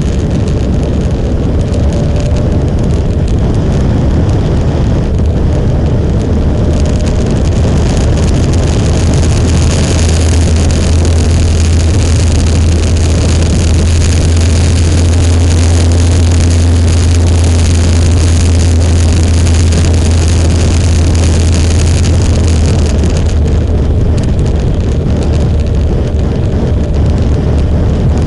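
Motorcycle riding at road speed: a steady engine-and-road rumble under heavy wind rush on the microphone. The rumble and hiss grow louder about a quarter of the way in and drop back near the end.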